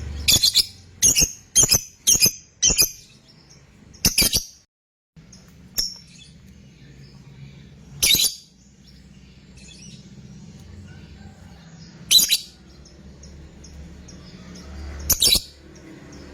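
Lovebird giving short, sharp, high calls: a quick run of about five calls roughly half a second apart, then single calls every few seconds.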